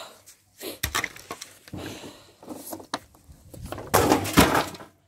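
Clicks, knocks and scraping from washing-machine parts being handled, with a louder rough scrape about four seconds in.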